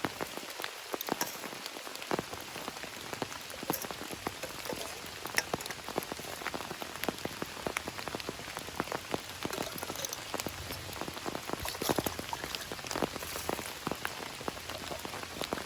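Steady rain falling, with many close raindrops striking a surface in quick, uneven succession.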